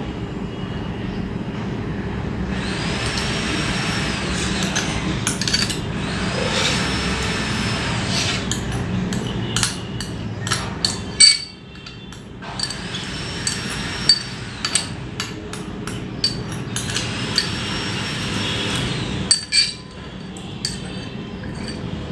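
Steady mechanical background noise that keeps up through the meal, with four surges of louder rushing noise, each two to three seconds long, and scattered knocks and clinks.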